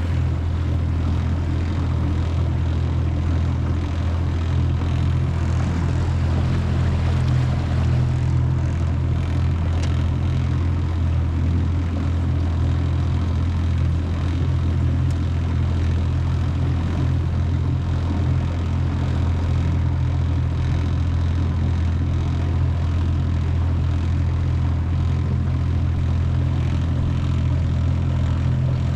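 25 hp Mercury four-stroke outboard running at a steady speed, a constant low drone with no change in pitch, with water rushing along the jon boat's hull.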